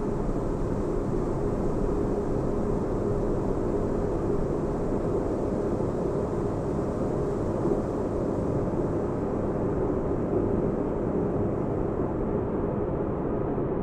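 Spaceship-interior sleep ambience: a steady, deep bass rumble and hum like a starship's engines heard from inside the cabin. The faint high hiss on top thins out near the end.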